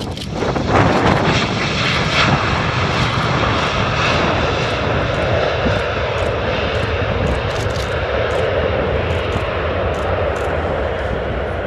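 Airbus A320 jet airliner landing, its engines a loud, steady rush that swells about half a second in and holds.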